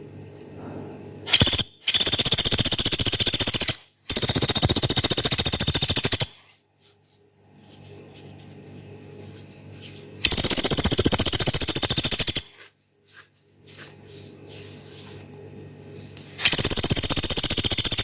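Pelatuk beras woodpecker calling in long, rough, rapid rattling trills, repeated in bursts of about two seconds: a short one about a second in, then four long ones.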